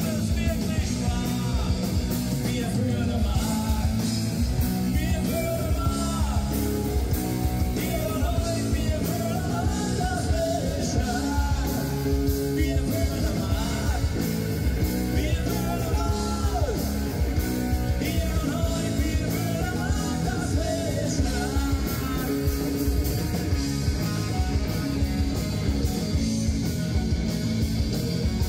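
Live rock band playing on stage, with a singer over guitars, bass and drums.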